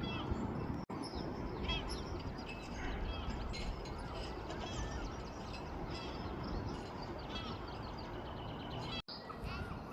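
Several wild birds chirping and calling in short, repeated notes over a steady outdoor rushing background. The sound cuts out briefly twice, about a second in and near the end.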